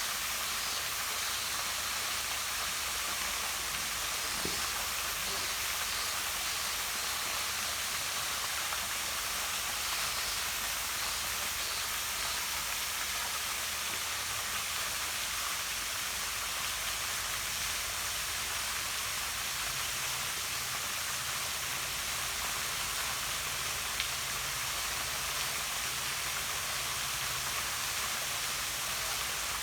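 Steady rush of a small waterfall pouring down rock into a pond: an even, unbroken hiss of falling and splashing water.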